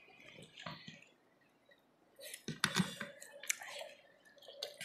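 Faint close-up eating sounds as rice and meat are eaten by hand: soft mouth clicks and chewing, mostly in a short cluster a little past the middle.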